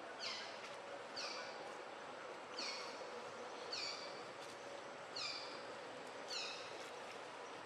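A short, high animal call that glides downward, repeated six times about a second apart, over a steady background hiss.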